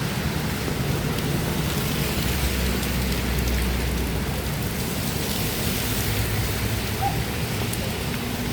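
Steady rain falling, an even hiss, with a low rumble from about two to four seconds in.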